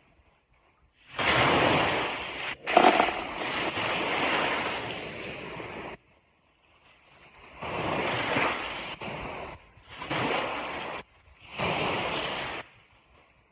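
Ocean surf breaking on a beach: a hissing wash of waves in several surges, the biggest about a second to six seconds in, then shorter ones, each starting and stopping abruptly with near-quiet gaps between.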